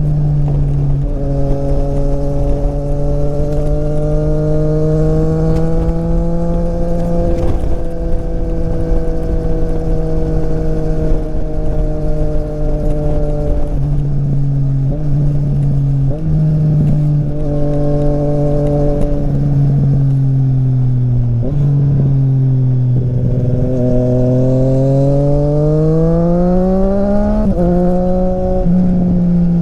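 Triumph Street Triple RS motorcycle engine through an SC-Project exhaust while riding. The engine note holds and sags slowly with the throttle and changes suddenly several times midway as gears are shifted. Near the end it climbs in a long acceleration and then drops abruptly at an upshift.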